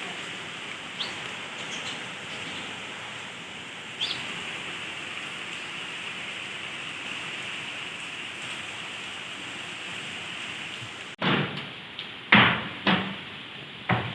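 Steady outdoor rushing noise with a few brief bird chirps. After a sudden cut near the end come several loud, short sounds.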